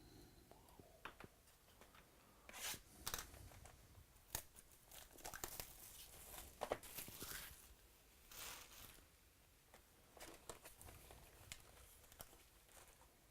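Wrapping on baseball card boxes and packs being torn open and crinkled, in scattered short scratchy bursts with a few clicks.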